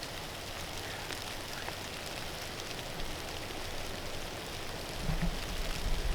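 Strong wind hissing steadily through the timber, with a gust starting to buffet the microphone in low rumbles near the end.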